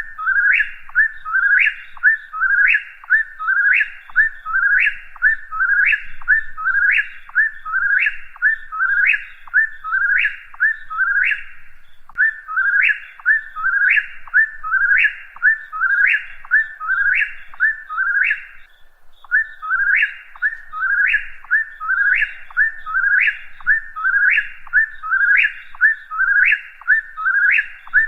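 Whip-poor-will singing its whistled 'whip-poor-will' phrase over and over at a steady quick pace, with one short break about two-thirds of the way through.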